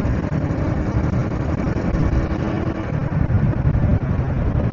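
A 70cc single-cylinder four-stroke motorcycle engine running steadily while the bike is ridden, heard from the rider's clip-on mic along with road noise.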